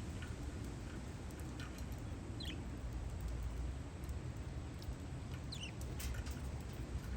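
Parakeets giving a few short, high, squeaky chirps that slide downward in pitch, over a steady low rumble of wind on the microphone.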